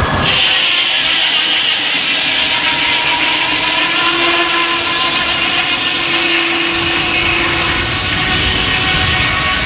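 Sawmill's circular saw cutting a log: a fraction of a second in, the sound changes sharply to a steady high whine of the blade in the wood, with the drive running under load.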